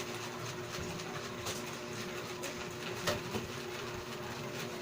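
Chicken feet simmering in a soy sauce braise in a pan on the stove: steady bubbling with scattered small pops over a steady hum.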